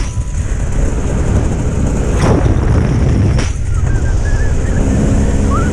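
Dirt bike riding: a loud, steady low rumble with two sharp knocks, and a warbling whistle-like tone that comes in about two-thirds of the way through.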